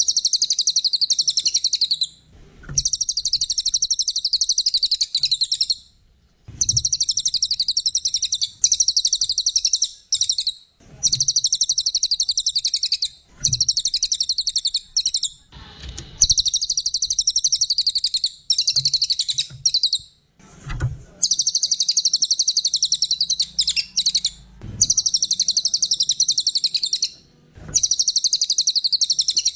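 A small songbird singing a rapid, high-pitched chattering twitter in long unbroken phrases of two to four seconds, each separated by brief pauses. Faint low thumps come at the start of several phrases.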